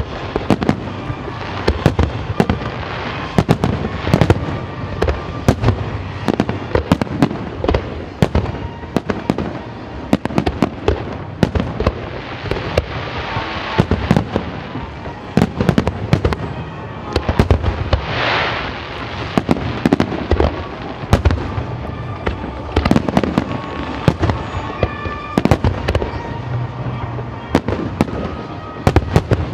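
Aerial fireworks shells bursting in rapid, irregular succession, with a brief rushing hiss about two-thirds of the way through.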